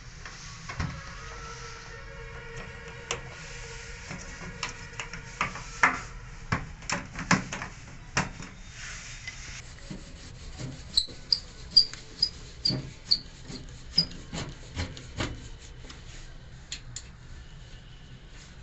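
Hand work on a front-load washing machine's rubber door gasket: irregular clicks, knocks and rubbing. In the second half there is a run of about seven short, high squeaks, roughly two a second.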